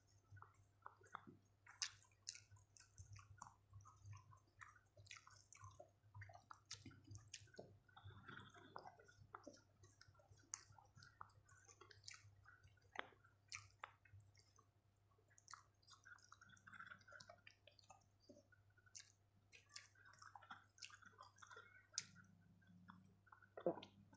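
Faint chewing of a mouthful of rice and food, picked up by a clip-on microphone, with scattered soft clicks and crackles.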